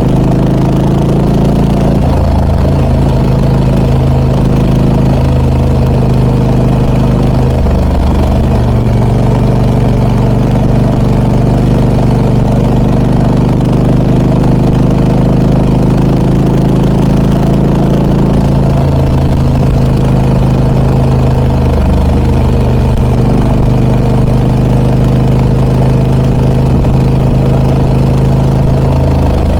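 Harley-Davidson Pan America 1250 Special's Revolution Max V-twin running through an aftermarket Scorpion exhaust, a steady low engine note with slight shifts in pitch about a third and two-thirds of the way through.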